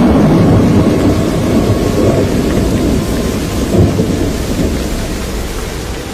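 Hurricane storm noise: wind and rain making a loud, low rumble that surges briefly near the middle and eases gradually toward the end.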